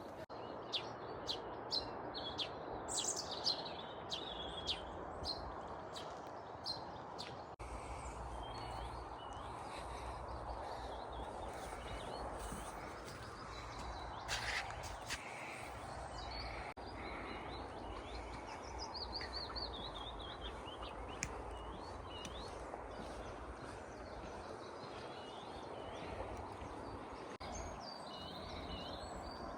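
Small birds chirping and singing, including falling trills, over a steady rushing background noise. A run of sharp clicks comes in the first several seconds.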